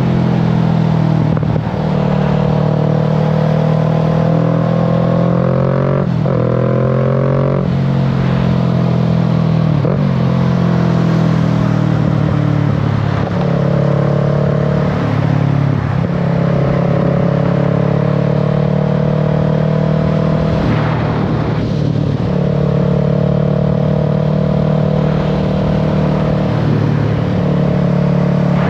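Kawasaki Z650's parallel-twin engine and exhaust running under way, holding a steady note with short breaks every few seconds as it goes through gear changes, with wind noise over it.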